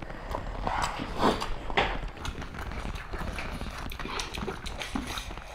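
Close-miked eating: wet chewing and lip smacking with irregular mouth clicks, from people eating pork and rice by hand.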